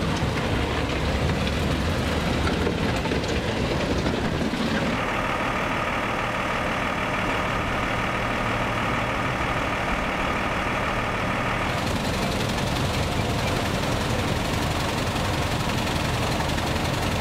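Heavy vehicle engines running, a steady engine drone with no speech; through the middle stretch an engine holds one steady pitch.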